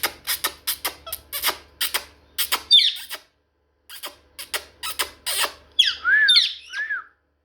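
Pet parrot making quick runs of short, sharp squeaks, about three to four a second, with a pause in the middle. Toward the end come a few whistled notes that rise and fall in arches.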